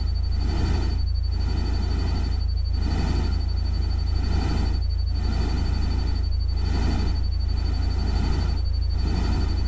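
Rain-and-stream nature ambience: a steady low rumble under a hiss that swells and dips about once a second, with a thin steady high tone throughout.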